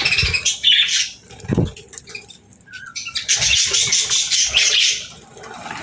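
Budgies flapping their wings in bursts of fluttering, with a few low thumps and a brief chirp partway through.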